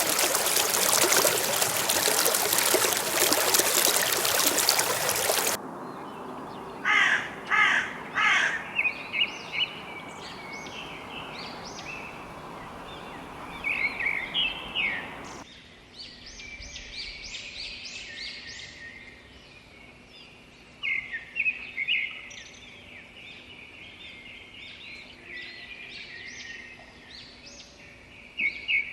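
Rushing water for the first five seconds or so, cut off abruptly by a series of loud, repeated bird calls; after another cut, further bird chirps and calls, with a louder group near the end.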